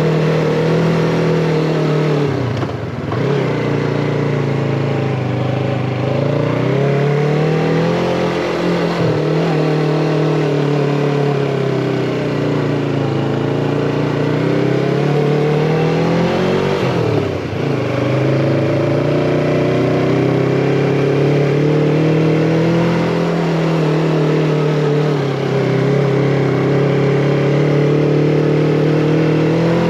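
Yamaha MT-25's parallel-twin engine running as the motorcycle is ridden, its pitch rising and falling with the throttle. It dips briefly about three seconds in and again around seventeen seconds, then climbs back.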